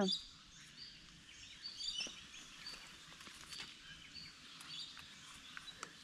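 Birds calling: short, high chirps at scattered intervals, with a few faint clicks.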